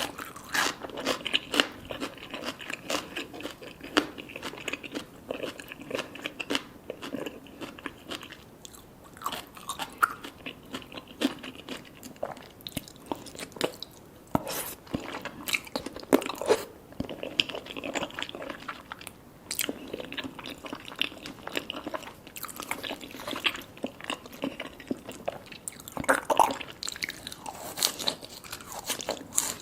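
Close-miked eating sounds of salmon sashimi with red tobiko and sea grapes being chewed, with many irregular sharp crunches and pops.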